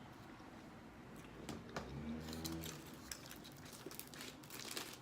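Close-miked eating sounds: chewing with scattered wet mouth clicks and smacks, thicker in the second half, and a short low hum about two seconds in.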